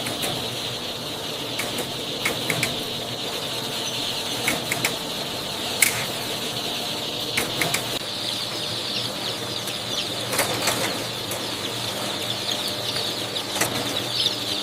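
A large mass of newly hatched chicks peeping all at once, a dense shrill chatter with scattered sharp clicks and knocks.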